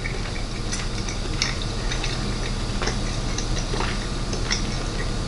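A person chewing a bite of moist rotisserie ham, with irregular small mouth clicks and smacks over a steady low hum.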